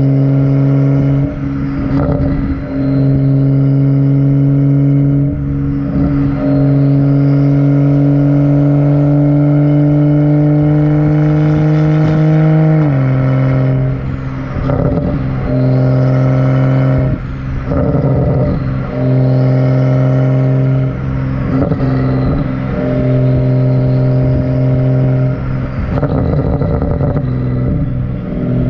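A BMW N55 turbocharged straight-six running through a catless, muffler-deleted exhaust, with a loud steady drone. About 13 seconds in, the revs climb slowly and then drop sharply, and the note keeps breaking off briefly every second or two.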